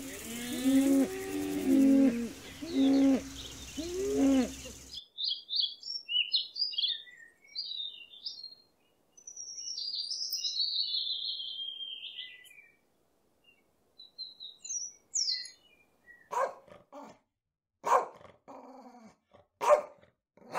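Cows mooing, several long sliding calls overlapping, for about the first five seconds. Then a European robin sings high, rapid warbling phrases. In the last few seconds a Doberman barks about four times, each bark roughly a second and a half apart.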